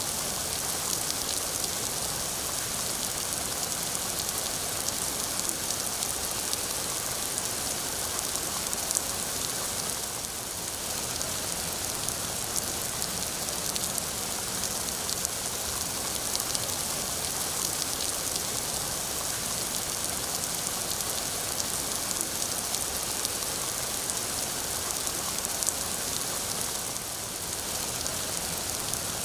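Steady rain falling, a dense even patter of drops on a surface, heaviest in the high hiss.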